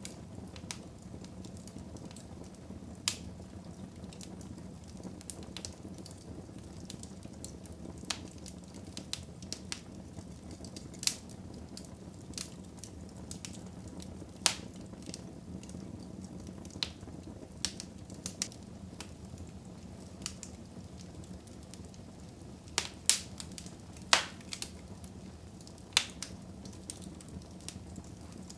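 Wood fire burning in a fireplace: a steady low hiss of flames with irregular crackles and occasional sharper pops from the burning logs.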